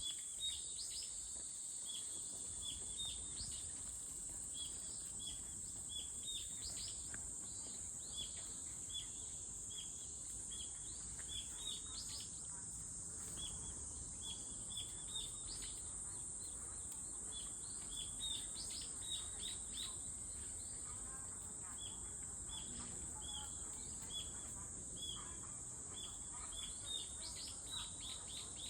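A steady, high-pitched insect drone, with many short, quickly falling bird chirps repeating irregularly over it.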